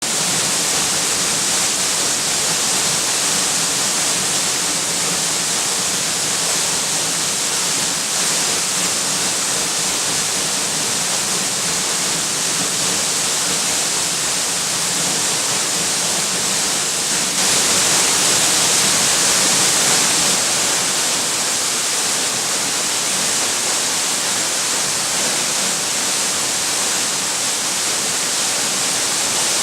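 Waterfall pouring steadily, a constant rush of falling water that grows a little louder for about three seconds just past the middle.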